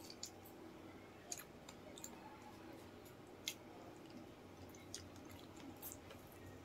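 Quiet eating sounds of people chewing chicken feet adobo by hand: scattered wet lip smacks and mouth clicks, about six in all, the sharpest about three and a half seconds in.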